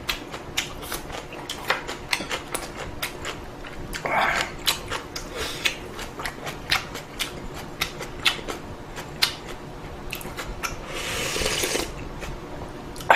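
Close-miked eating of ramen: many irregular wet clicks and smacks of chewing, with a short slurp about four seconds in and a longer, hissing slurp near the end.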